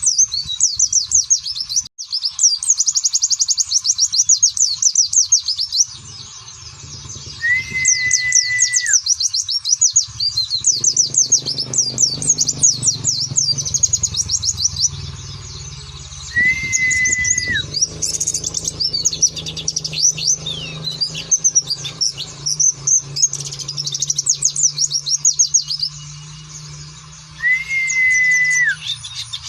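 Pleci (white-eye) twittering in fast, high, dense chirps and trills, with quick rapid-fire bursts of song. Three times a long level whistle, lower in pitch and dropping at its end, sounds through it, and a faint low hum runs under the second half.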